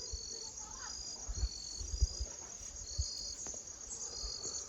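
Crickets or similar insects calling: a steady high buzz with short chirps repeating roughly every half second. A few soft low thumps sound under them.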